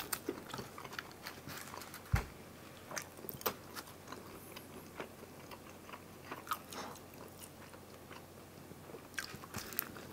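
Close-miked biting and chewing of pizza crust: irregular crisp crunches and mouth clicks, with a dull low thump about two seconds in.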